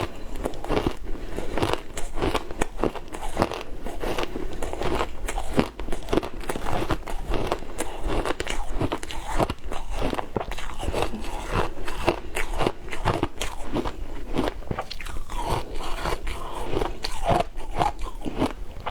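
Matcha-flavoured ice being bitten and chewed: a continuous run of sharp crunches and cracks, with one short break just before six seconds in.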